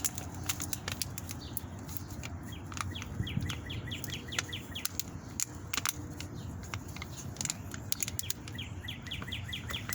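A songbird singing two rapid trills of repeated downward-slurred notes, about five a second, the second starting near the end. Wind rumbles on the microphone underneath, and sharp clicks run through.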